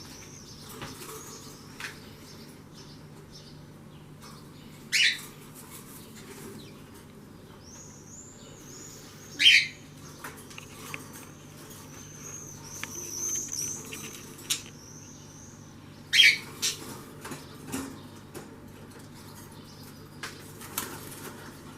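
Pet budgerigars and a cockatiel calling: a thin, high warbling chatter, broken three times by a loud, sharp call.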